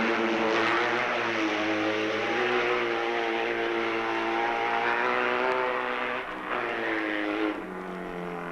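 Racing motorcycle engine at high revs, its note climbing slowly, then dropping twice near the end.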